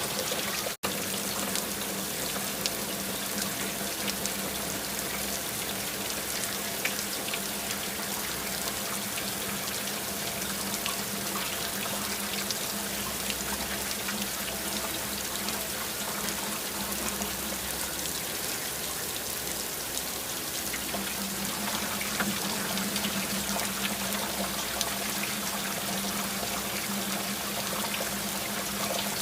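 Steady rain, a dense patter of drops with a trickle of running water under it. A low steady hum runs beneath, thinning for a few seconds past the middle, and the audio drops out for an instant about a second in.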